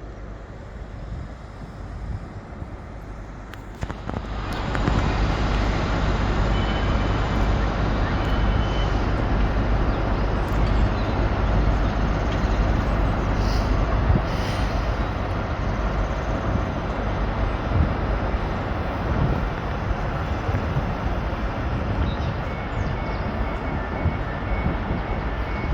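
A train engine running loudly, with a low rumble and steady hum. The noise swells sharply about four seconds in and then holds steady.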